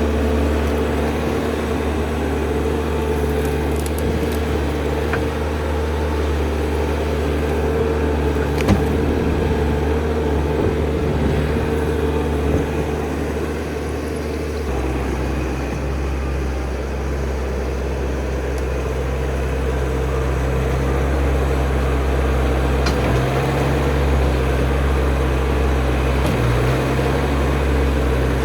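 Skid steer engine running steadily, its note changing about halfway through as the machine is worked.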